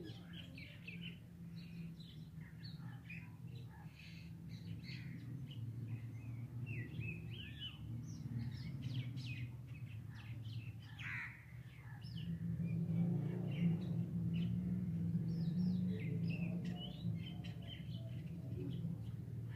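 Birds chirping and calling in short scattered notes, over a low steady hum that grows louder about two-thirds of the way through.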